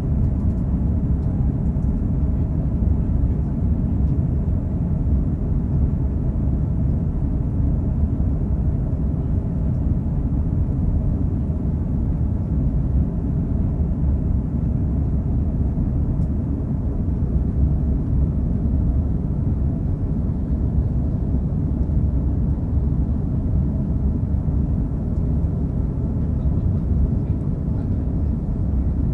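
Steady, loud low roar of an Airbus A330-300's Rolls-Royce Trent 700 engines and airflow, heard from inside the passenger cabin, unchanging throughout.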